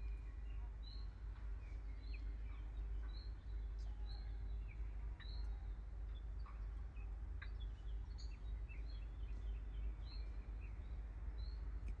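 Small birds calling in woodland: one bird repeats a short high chirp about once a second while others add scattered chirps, over a steady low rumble.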